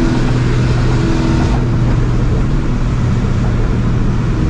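Supercharged 2004 Ford Mustang GT's 4.6-litre two-valve V8 cruising at a steady pitch, its Borla catback exhaust drone heard loud inside the cabin, whose rear sound deadening has been stripped out. The higher hiss drops back about a second and a half in while the low engine note carries on unchanged.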